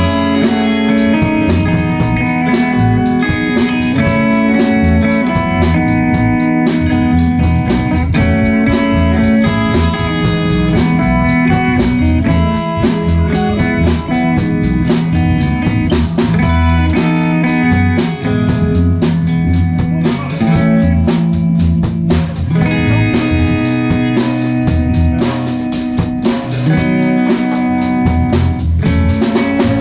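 Live band playing a song: electric guitar over bass guitar and a drum kit with a steady beat.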